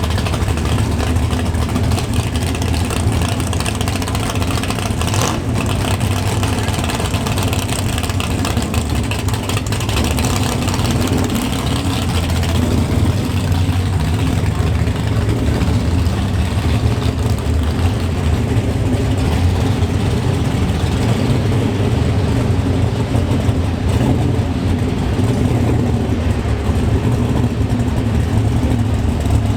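Muscle car V8 engine and exhaust running steadily, with a deep low rumble and no big revs.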